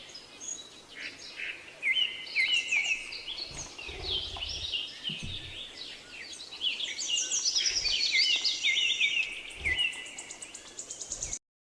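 Budgerigars chirping and chattering, several birds at once in a continuous busy warble. It cuts off abruptly near the end.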